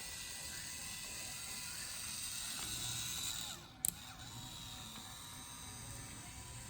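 Toy train's small motor and gears whirring steadily. About four seconds in the sound drops briefly and there is a single sharp click, then the whirring goes on.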